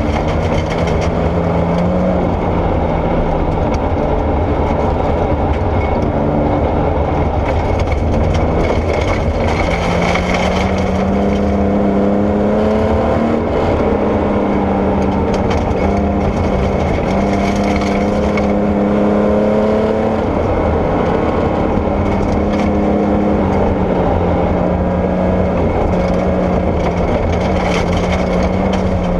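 Porsche 964 rally car's air-cooled flat-six running hard, its pitch climbing and then dropping several times as it accelerates, shifts and lifts, over a steady rush of gravel and tyre noise.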